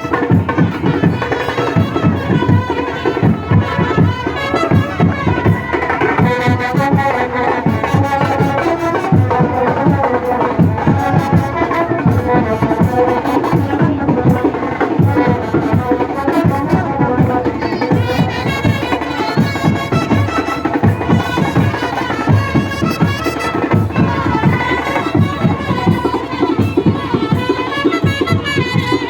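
Indian band baja, a brass band with drums, playing a traditional tune with a busy drum beat.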